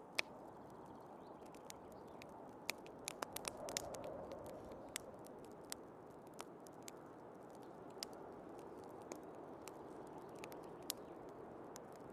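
Wood fire crackling in a fireplace, with scattered sharp pops that come thickest about three to four seconds in, over a steady rushing of storm wind that swells briefly around four seconds.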